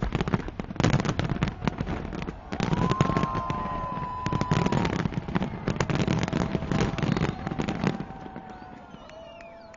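Fireworks going off in a dense, continuous barrage of bangs and crackling with low booms, which thins out about eight seconds in and fades away. A long held call rises over the noise in the middle, and short crowd whoops follow as the bangs die down.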